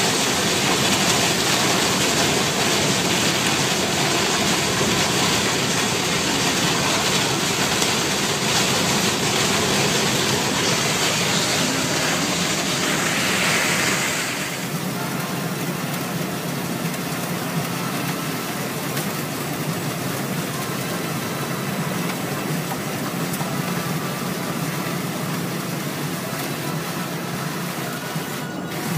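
Heavy storm rain hissing on a moving car over the steady hum of the engine and tyres on the motorway. The rain noise drops off sharply about halfway through, leaving the engine and road hum.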